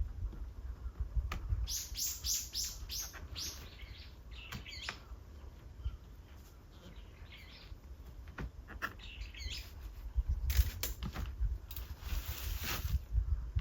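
Birds chirping: a quick run of about six short high notes a couple of seconds in, scattered calls later and a busier patch near the end, over a low rumble.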